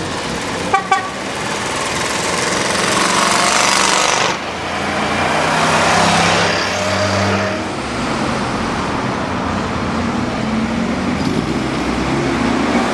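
Two short horn toots about a second in, then a vintage Daihatsu three-wheeled truck driving by with its engine running, the noise swelling and cutting off suddenly about four seconds in. In the second half another Daihatsu three-wheeler's engine runs steadily.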